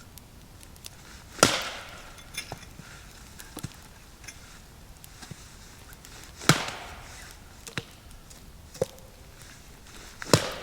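Wood being chopped: three heavy chopping blows about four seconds apart, with lighter knocks and snaps between them.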